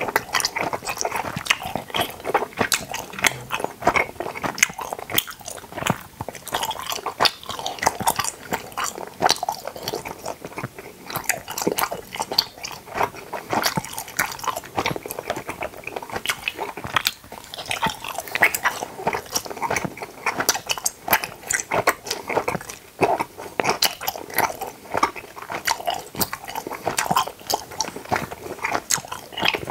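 Close-miked chewing of gummy candy shaped like teeth and gums: continuous chewing with many quick mouth clicks and smacks.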